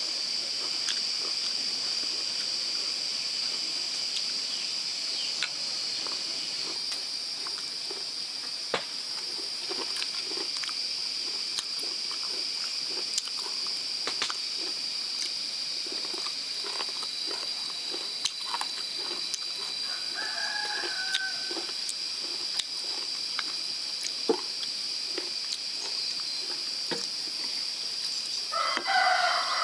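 Steady high-pitched insect drone, with scattered light clicks and knocks throughout. A brief animal call comes about two-thirds of the way in and again near the end.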